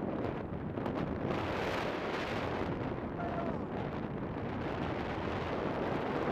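Wind rushing and buffeting against the microphone, a steady noisy roar.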